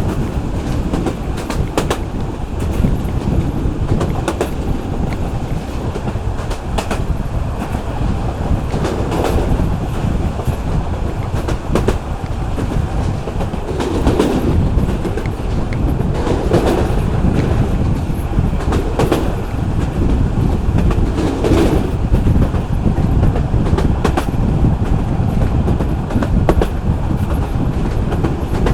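Local passenger train running along the track: a steady low rumble with wheels clicking over the rail joints. For a stretch in the middle, a louder swell comes round about every two and a half seconds.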